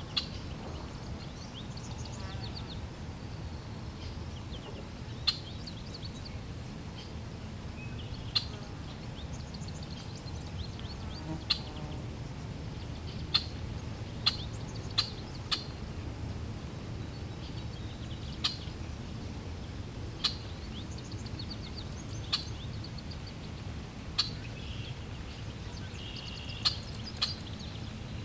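Birds chirping, with short sharp high chirps every second or two and some brief trills, over a steady low rush of flowing water.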